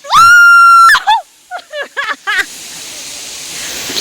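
A high-pitched voice letting out one long, loud shriek, then a few short, quick cries, followed by a steady hiss of background noise.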